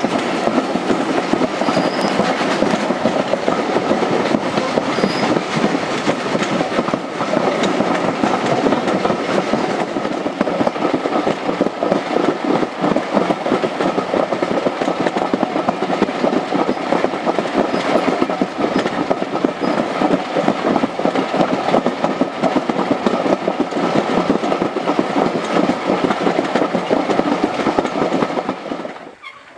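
Steady running noise of a train carriage on the move, wheels clattering on the track, heard at an open carriage window of a heritage steam train. The sound drops away sharply near the end.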